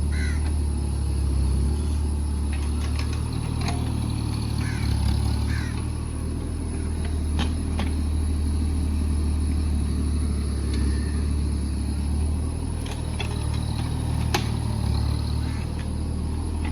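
Mini excavator's diesel engine running steadily under work, with a few sharp knocks scattered through.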